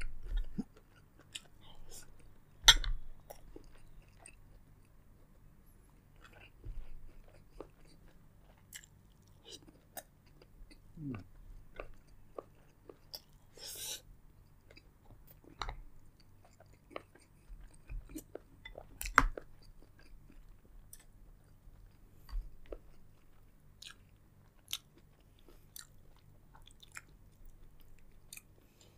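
Close-up eating sounds of a seafood boil: chewing, biting and wet mouth smacks, in scattered short clicks with louder bites at about 3 and 19 seconds in.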